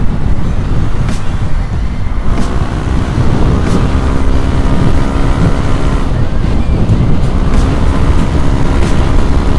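Single-cylinder Yamaha Aerox scooter with a Rob1 aftermarket exhaust running on the road, its engine note shifting in pitch as the throttle changes, under heavy wind noise on the microphone.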